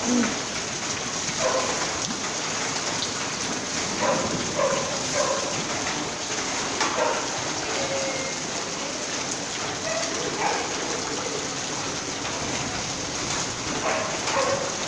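Heavy rain falling steadily, a dense even hiss, with short distant pitched calls rising above it every few seconds.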